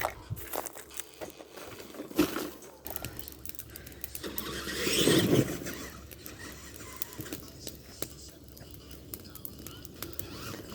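Radio-controlled monster truck crawling over rough ground: scattered clicks and knocks, and a louder swell of noise that rises and falls about four to five and a half seconds in.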